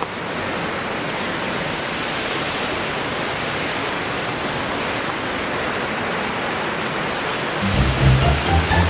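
Waterfall rushing, a steady even wash of falling water. Near the end, background music with a heavy beat comes in over it.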